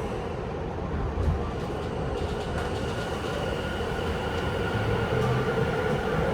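Tokyu 5050 series electric train heard from inside the car as it accelerates away from a station: a steady rail and wheel rumble with the high whine of the traction motors and inverter, growing a little louder, with tones starting to rise near the end.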